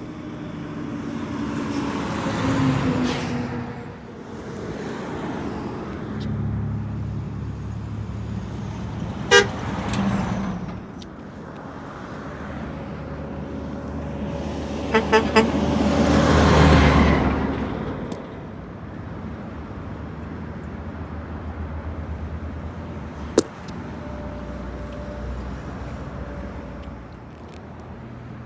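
Road traffic passing close by, engines and tyres swelling as vehicles go past. A horn sounds one short blast about 9 seconds in, then three quick toots about 15 seconds in.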